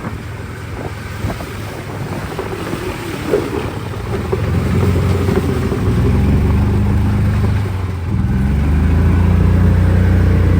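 Small boat's outboard motor running under way. It gets louder as the throttle opens about four seconds in, and again after about eight seconds.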